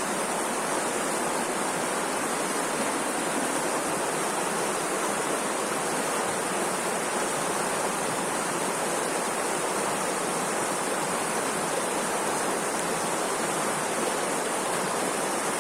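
Steady rushing water, an even unbroken wash with no pauses or distinct events.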